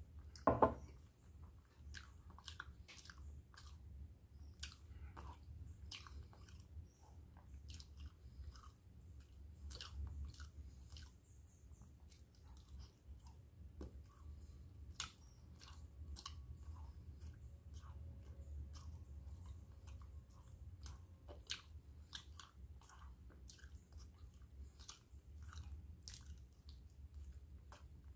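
Close-miked chewing of food, with many small wet clicks of the lips and tongue. A brief louder sound comes about half a second in.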